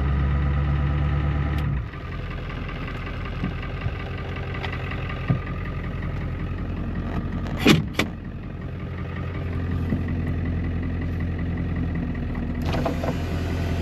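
A 1997 Ford F-350's 7.3 L Powerstroke turbo-diesel V8 idling just after a rough start. A little under two seconds in its deep low note drops away, and two sharp knocks come close together about eight seconds in.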